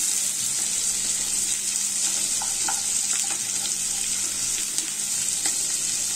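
Sliced onion, carrot and capsicum sizzling steadily in hot oil in a non-stick wok as they are stir-fried, with a few light taps and scrapes of a wooden spatula against the pan.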